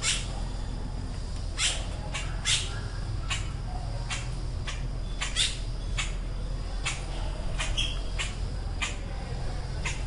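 Short, sharp bird calls, about a dozen of them at irregular intervals, over a steady low rumble.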